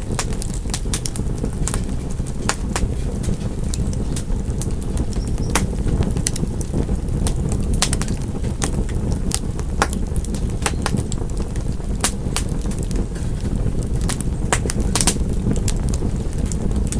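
Wood fire in a fireplace crackling: many sharp, irregular snaps and pops over a steady low rumble.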